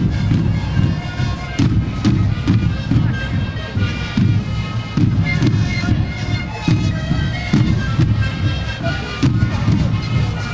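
A sikuri band playing: many siku panpipes blown together in a chorus of held notes over regular bass drum beats, about two a second.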